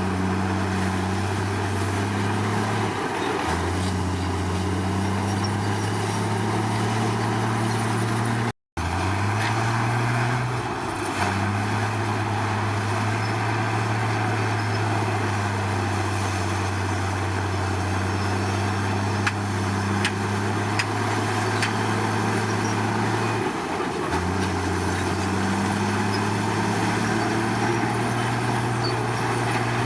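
Komatsu D53 crawler bulldozer's diesel engine running steadily under work, its pitch sagging briefly twice as it takes load. After a momentary break in the sound about a third of the way in, the engine revs up, then settles back to a steady run, with a few faint metallic clicks near the two-thirds mark.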